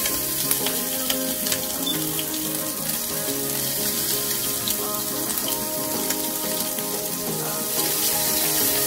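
Sliced bacon with freshly added onion and scallions sizzling in a hot non-stick frying pan, over background music.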